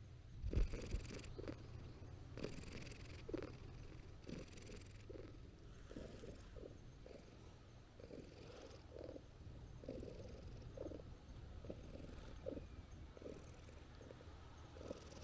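Brown tabby stray cat purring steadily, with a low bump about half a second in.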